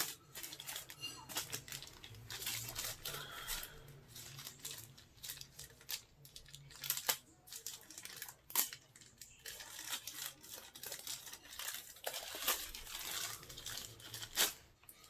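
Irregular rustling, crinkling and small clicks of hands handling charging cables and their packaging, with a few sharper clicks along the way.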